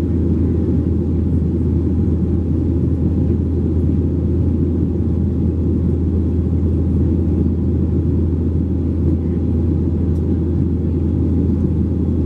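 Steady cabin rumble of a Boeing 737-700 in flight, its CFM56-7B engines and airflow making a constant deep hum and roar with no change in pitch or level.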